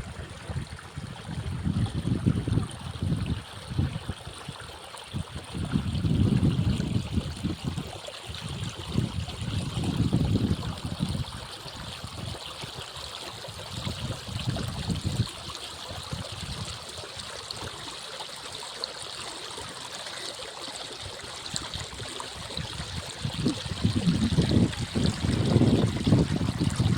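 Small stream beside a paddy field, water running and trickling steadily, with low rumbles coming and going every few seconds.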